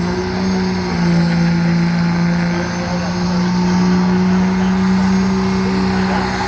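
Work-stock diesel pickup truck engine running hard at high, steady revs, a loud continuous drone with a slight step up in pitch about a second in.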